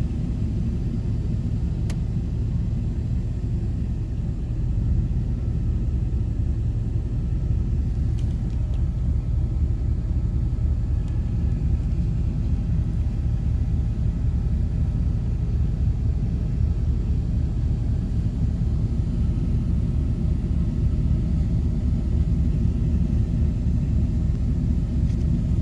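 Car engine idling steadily with the freshly recharged R134a air conditioning running, a low even rumble heard from inside the cabin.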